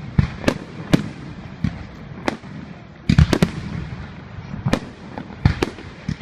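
Fireworks display: a run of sharp bangs from fireworks bursting, irregularly spaced, with a quick cluster of several bangs about three seconds in.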